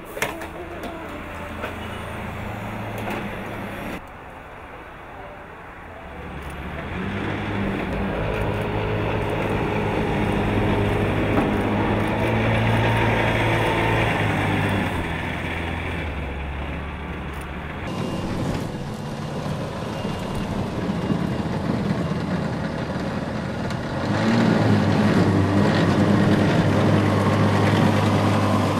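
Engine of a Transition roadable aircraft (flying car) running as it drives on the ground: a steady low hum that drops and swells at several points and is loudest near the end. A few sharp clicks come right at the start.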